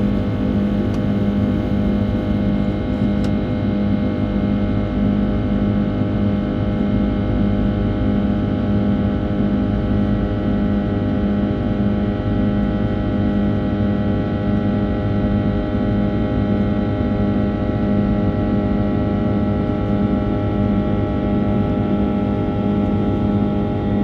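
Steady cabin drone of an Airbus A330-300 climbing after takeoff: its Rolls-Royce Trent 700 turbofans and airflow make an even hum, with several steady tones and the strongest low one near 200 Hz.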